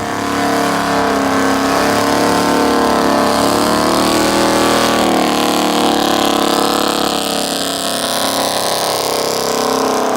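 Car engine running at steady high revs, with a thin high whine rising slowly in pitch over the second half.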